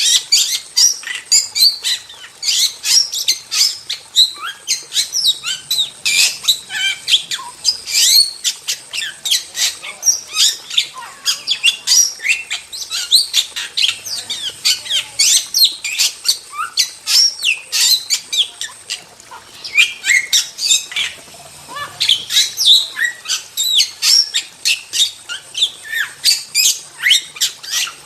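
Starlings (jalak) calling continuously: a dense run of rapid, sharp chattering notes, harsh squawks and short whistled glides, with a brief lull about two-thirds of the way through.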